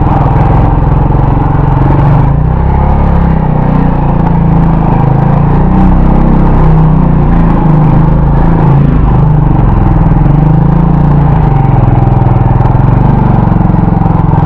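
Motorcycle engine running loud and steady while riding on the road, its note shifting a little up and down.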